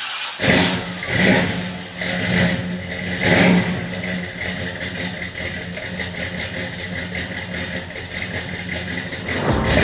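A car engine revved in about four short bursts during the first few seconds, then running steadily.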